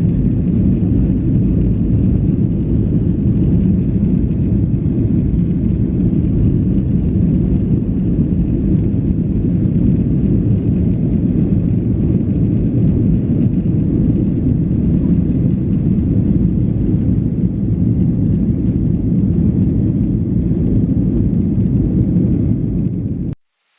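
Steady, loud low rumble of a vehicle in motion, which cuts off abruptly near the end.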